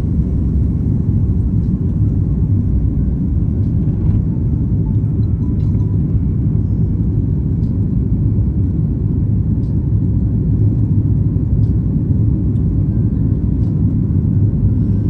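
Airliner taking off: a steady, low rumble of jet engines and airflow that keeps an even level.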